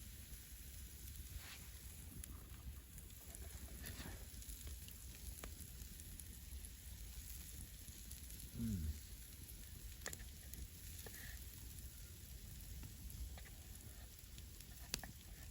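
Wild boar kebabs sizzling gently over a campfire, set back from the heat, with scattered small pops and crackles. A little past halfway a short low sound falls in pitch, the loudest thing heard.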